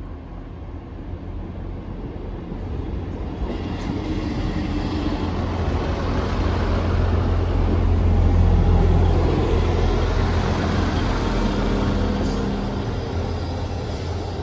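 East Midlands Railway diesel multiple unit arriving at a station platform. Its engine rumble and wheel noise grow louder as it draws alongside, peak about halfway through, then ease off as it slows, with steady tones from the engines or brakes in the middle.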